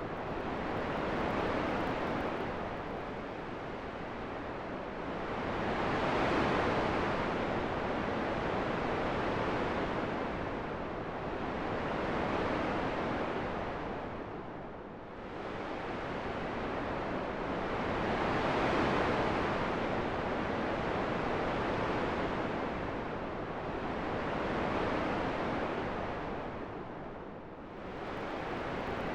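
Wind: a steady rushing noise that swells and eases in slow gusts every several seconds, dropping to a lull about halfway through and again near the end.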